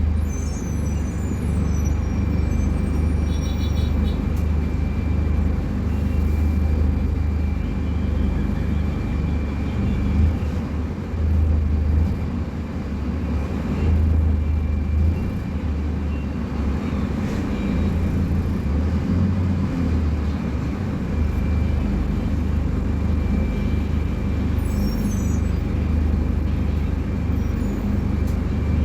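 Scania K250UB bus's diesel engine running, a steady low drone that swells and eases slightly, with a faint steady high whine above it.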